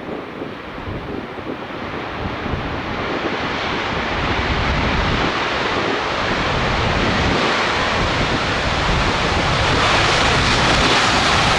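A Boeing 737-800 airliner landing, with the roar of its two CFM56 turbofan engines growing steadily louder into a broad, rushing noise.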